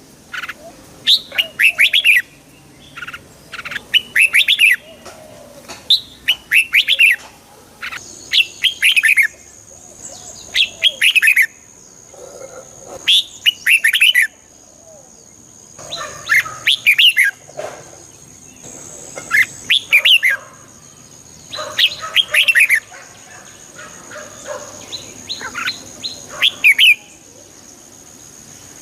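Red-whiskered bulbul singing: short, quick phrases of gliding whistled notes, repeated every second or two with brief pauses.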